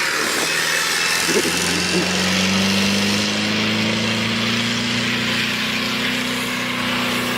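Engine running steadily, its pitch creeping slowly upward as it revs a little higher.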